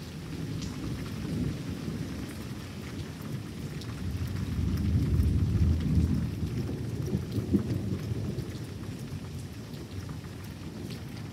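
Thunder rolling over steady rain, swelling to a loud low rumble about halfway through and then slowly dying away.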